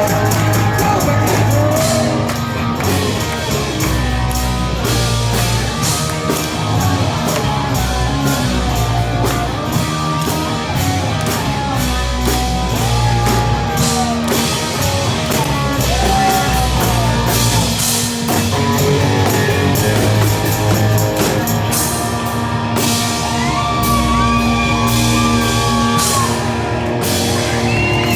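Live rock band playing, with drum kit, bass and a sung melody line over a steady beat.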